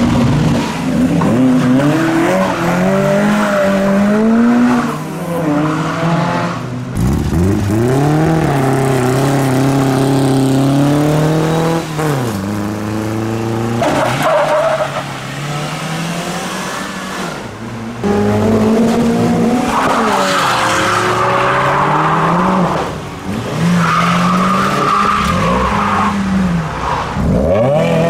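A car engine revving hard again and again, its pitch rising and falling, with tyres squealing as the wheels spin in a burnout or drift; the squeal is strongest in the second half.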